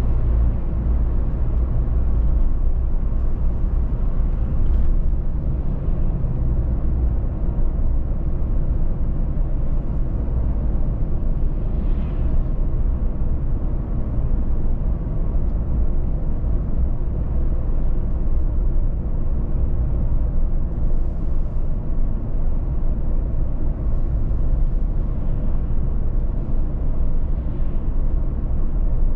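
Steady low road rumble of a car driving at speed: tyre and engine noise, with faint brief swells of higher hiss now and then.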